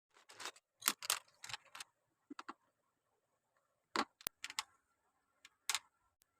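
Plastic Lego pieces clicking and clattering as they are handled and pressed together: a quick run of sharp clicks in the first two seconds, then a few more around four seconds and near the end.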